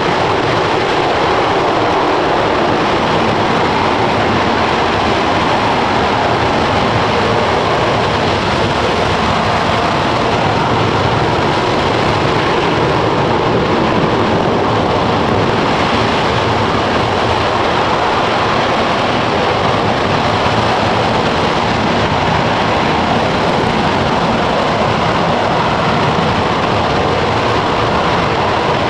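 RS-25 liquid-hydrogen/liquid-oxygen rocket engine, a former Space Shuttle main engine, firing steadily in a static hot-fire test: a loud, continuous rushing noise that holds level throughout.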